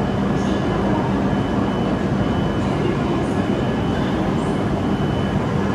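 Train running, with a steady rumble and rushing noise, a low hum and a few short high hisses.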